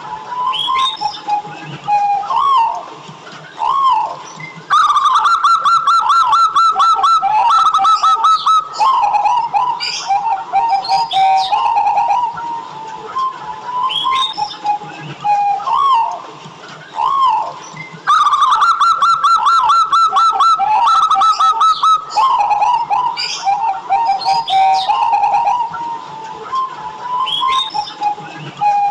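Zebra dove (perkutut) song: rolling, trilled coos repeated around one pitch, with a louder, rapid trilled phrase about five seconds in and again near eighteen seconds, and scattered higher chirps over it.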